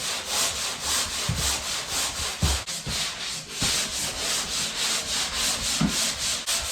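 Hand sanding of dried plaster with 150-grit sanding mesh on a sanding paddle: quick, rhythmic back-and-forth scraping strokes, several a second.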